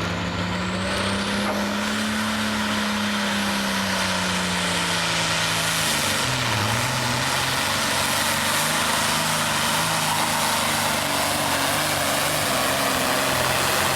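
A John Deere hot farm pulling tractor's engine running hard at high revs under load, with a high whine climbing in the first couple of seconds. The engine note sags briefly about six seconds in, then holds steady.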